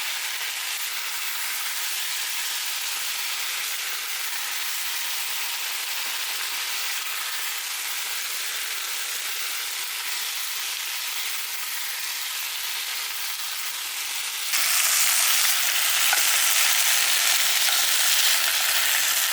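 Pieces of chicken thigh deep-frying in hot oil, a steady sizzle. It suddenly becomes louder about three-quarters of the way through.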